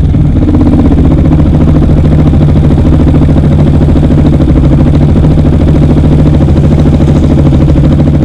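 Small single-cylinder CF Moto Papio engine idling steadily through a Yoshimura RS-9 aftermarket exhaust, loud and close, with an even, fast exhaust pulse.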